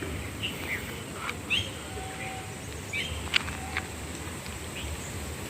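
Outdoor ambience: several short bird chirps over a steady low background rumble, with a faint steady high-pitched tone and a single sharp click a little past halfway.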